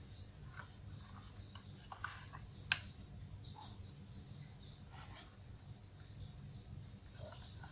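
Scattered light clicks and taps, with one sharper click a little under three seconds in, over a steady faint high-pitched hiss.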